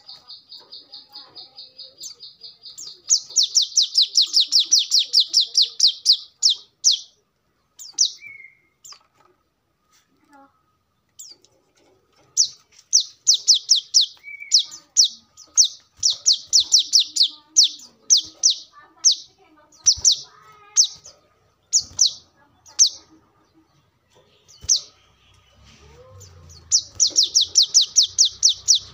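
Brown-throated sunbird (kolibri kelapa) calling in rapid trills of sharp, high notes, about ten a second. The trills come in runs of a few seconds, broken by pauses and scattered single notes, with a loud run near the end.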